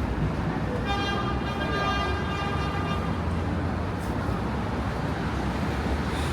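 Steady city traffic noise, with a vehicle horn held on one steady pitch for about two seconds, starting about a second in.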